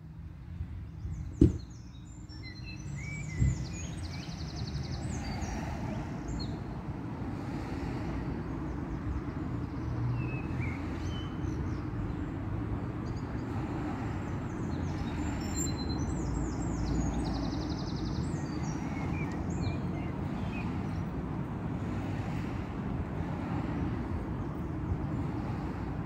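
Birds singing in short bursts of high chirping phrases, twice in clusters, over a steady low rumble, with two sharp knocks in the first few seconds.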